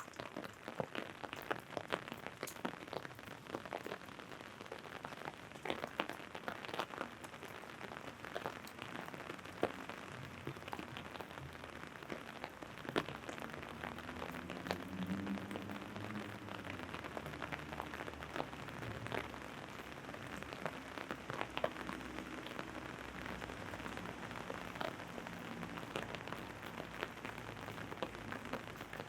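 Steady rain, with many sharp drops tapping on an umbrella overhead. A faint low drone rises and fades in the middle.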